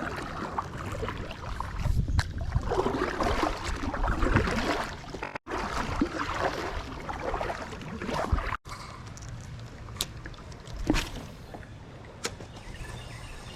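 Kayak paddling: paddle blades dipping and splashing, water sloshing and gurgling around the hull. It grows quieter about two-thirds of the way through, with a few sharp clicks near the end.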